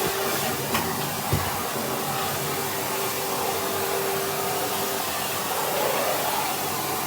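Vacuum cleaner running with a brush attachment, a steady rush of air with a held tone that drops out about five seconds in. A couple of light knocks come in the first second and a half.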